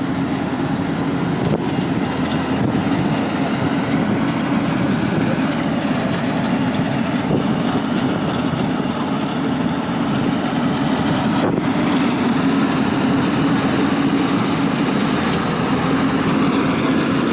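Harvester engine running steadily at a constant speed.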